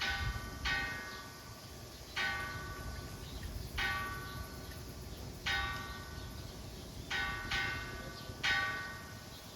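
A small metal bell rung at uneven intervals, about eight clear ringing strikes, each fading out before the next, over a low background rumble.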